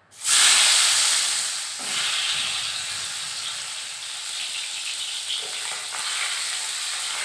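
Tilapia pieces rubbed with salt and turmeric going into hot oil in a kadai: a loud sizzle breaks out at once and eases into a steady frying hiss, with a small surge about two seconds in.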